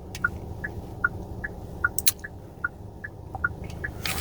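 A car's turn-signal indicator ticking inside the cabin, an even alternating tick-tock about every 0.4 s, over steady low road and engine noise from the taxi, which grows louder near the end.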